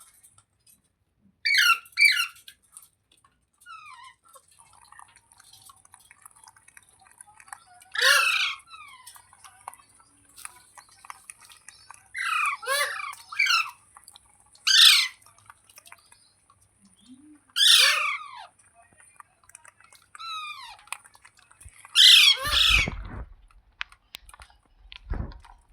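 Green ringneck parrot giving loud, harsh squawking calls in short bursts, about seven across the span, with quieter chirps between. A low rumble joins in near the end.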